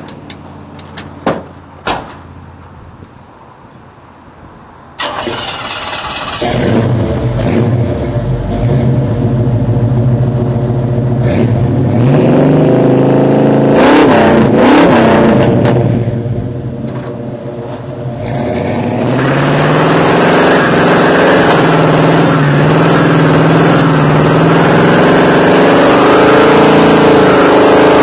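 A few clicks, then about five seconds in the 1987 Chevy Silverado's 5.7-litre small-block V8 starts and runs through a dual 3-inch exhaust straight out through Flowmaster 40 Series mufflers with no catalytic converters. It is revved up and down about halfway through, then runs steadily and loud for the last third.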